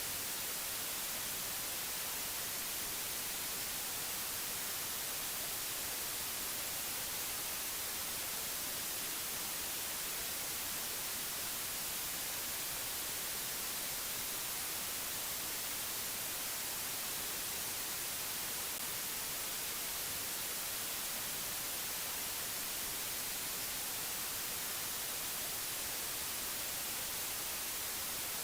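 Steady hiss of white noise, even and unchanging, brightest in the high end.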